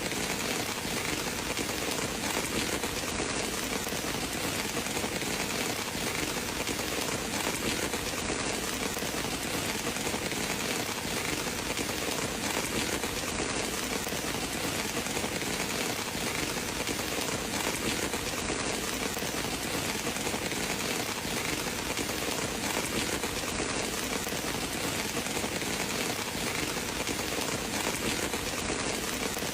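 Steady rain, a constant even hiss of falling drops with no rise or fall.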